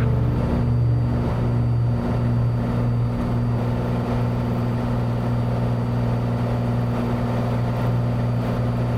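Cessna 182's six-cylinder piston engine and propeller at full takeoff power, heard inside the cabin as a steady, loud drone.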